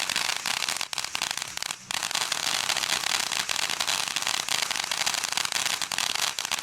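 Small consumer firework giving off a dense, continuous crackle, with a brief break just before two seconds in.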